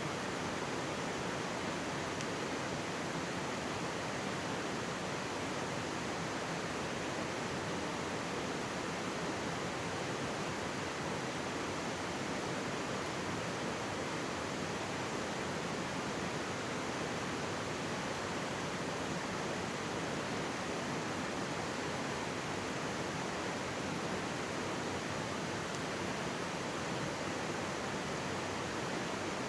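Mountain stream running over rocks close by: a steady, even rush of water.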